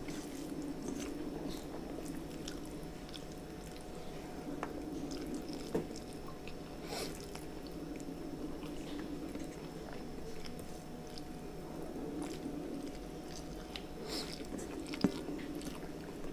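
A person chewing a mouthful of rice and curry, with soft mouth sounds and small clicks and crunches, under a steady low hum in the room.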